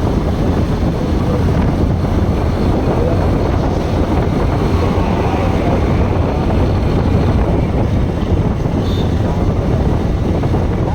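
Wind buffeting the microphone of a rider on a moving Bajaj Pulsar NS160 motorcycle: a steady, loud rumble with the bike's engine and road noise beneath it.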